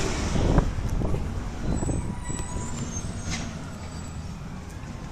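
Garbage truck running, its engine noise loud at first and steadily fading, as of a truck pulling away.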